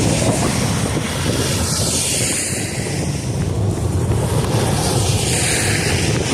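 Wind rumbling on the microphone, with two vehicles passing on a snow-covered road about two and five seconds in, each a swelling and fading swish of tyres.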